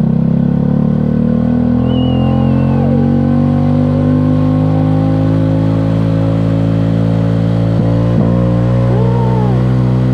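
Motorcycle engine running at low revs in first gear as the bike pulls away on a little throttle. The pitch rises gently over the first few seconds, then holds steady.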